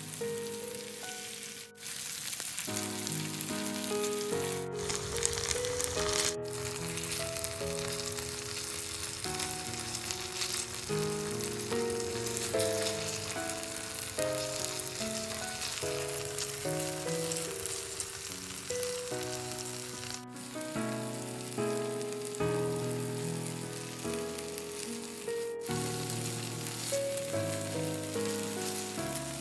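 Chicken pieces frying in butter in a pan, a steady sizzle, under background music of short stepped melodic notes. The sound cuts out for an instant several times.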